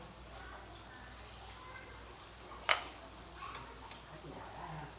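Cake batter frying in hot oil with a steady, low sizzle. A single sharp clack, like a utensil striking the pan, comes a little past halfway.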